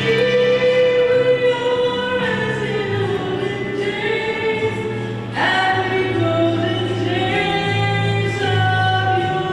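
A choir singing slow, held notes over low sustained accompaniment, with a new chord coming in about five seconds in.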